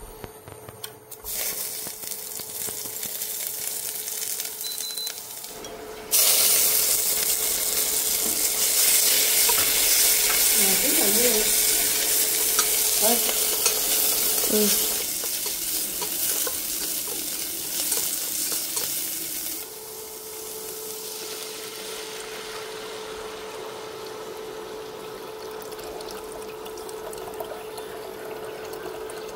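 Oil sizzling in a stainless steel pot. About six seconds in, food goes into the hot oil and the sizzle jumps sharply louder, then goes on as the food is stirred with chopsticks. It drops back to a quieter sizzle about twenty seconds in.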